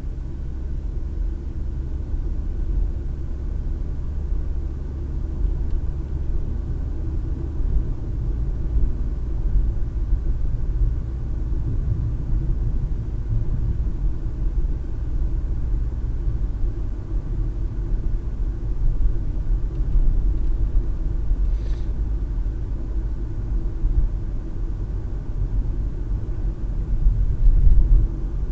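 Steady low rumble of a car driving, road and engine noise heard from inside the cabin. There is a single short tick about 22 seconds in.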